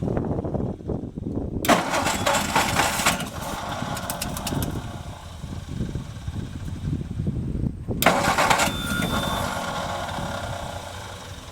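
1962 Ford F-350 engine cranking on the starter with gasoline poured into the carburetor, trying to fire. Uneven churning throughout, with a louder, harsher stretch about 2 s in and again about 8 s in; it does not settle into a steady run.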